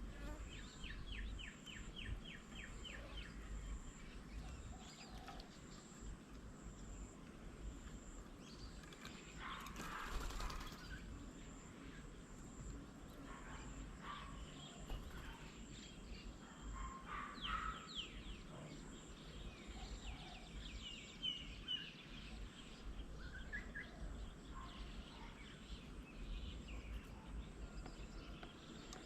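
Several small birds calling and chirping at intervals, opening with a quick run of repeated notes. A steady low rumble runs underneath, and a brief rush of noise comes about ten seconds in.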